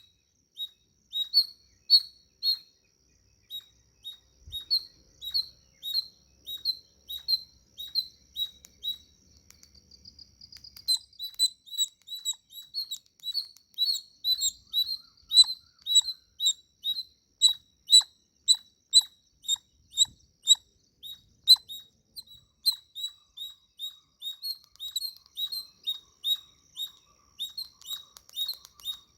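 Chipmunk giving a long series of short, high, sharp chip calls. The calls come irregularly at first, then settle into a steady run of about two a second.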